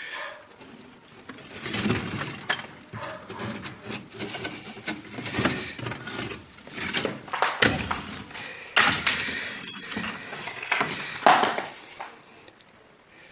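Demolition of a fireplace's masonry: irregular knocks, scraping and clinking of broken bricks and debris. A metallic ringing comes about nine seconds in, and the strongest hit a little after eleven seconds.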